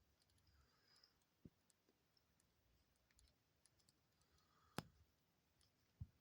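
Near silence with faint scattered ticks and soft rustles from two doves preening each other's feathers, and a sharper click a little before the end followed by a dull knock.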